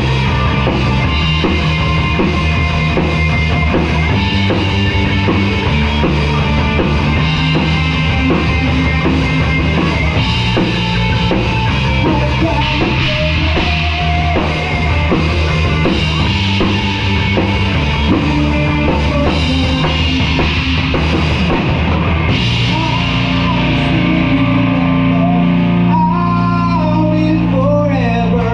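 Live band playing rock music with a full drum kit. About three quarters of the way through, the cymbal strokes drop out and held, bending notes carry on.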